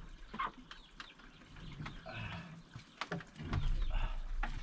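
Ducks quacking in short, scattered calls, with a low rumble of handling noise a little past halfway.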